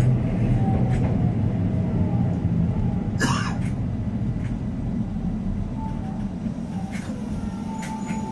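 Keihan 800 series train heard from the driver's cab as it pulls away from a station, a steady low rumble of motors and wheels on rail. A short, sharp hiss cuts in about three seconds in.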